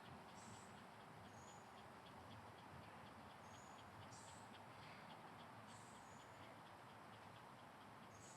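Near silence: faint outdoor ambience with short, high bird chirps about once a second over a quick, soft ticking.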